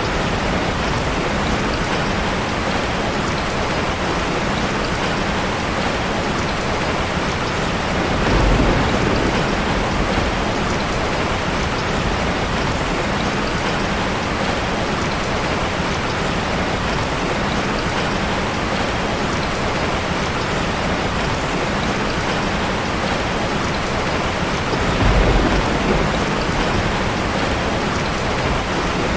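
Heavy rain falling steadily in a dense, even hiss, with two brief low rumbles, about eight seconds in and near the end.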